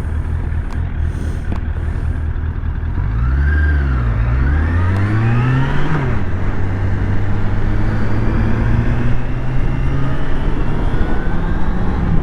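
Suzuki Bandit 600 inline-four motorcycle engine under way, with wind noise on the helmet microphone. About three seconds in the engine note dips and then climbs, drops sharply at a gear change near six seconds, then holds and slowly rises again.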